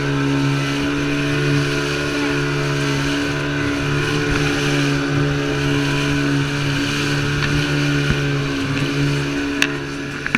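Boat's outboard motor running at a steady speed, a constant drone that eases off near the end, with a couple of sharp clicks just before it does.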